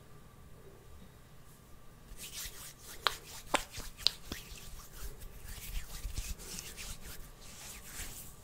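Close-up ASMR rubbing and scratching on an object, starting about two seconds in, with a few sharp clicks or taps near the middle.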